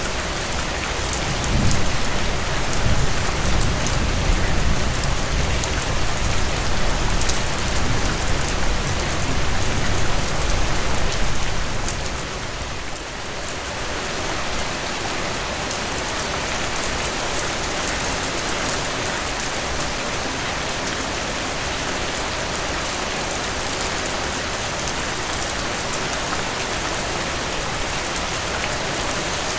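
Steady rainfall, an even hiss of drops on surfaces. About two seconds in, a louder low rumble joins it; it eases off around twelve seconds in, and the rain then runs on evenly.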